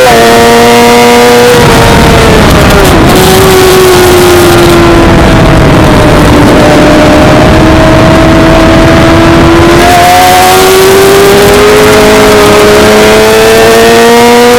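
Suzuki GSX-R600 inline-four engine heard onboard at race pace, very loud with wind rush on the microphone. The revs drop after about a second and a half as the rider comes off the throttle and shifts down for a corner, sag while coasting through it, then climb steadily as the bike accelerates out.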